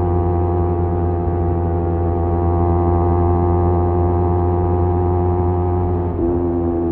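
Kawasaki Z250 motorcycle with a SeaPro aftermarket muffler cruising at steady revs, its exhaust giving a steady, even drone. About six seconds in there is a brief dip and the pitch steps down slightly.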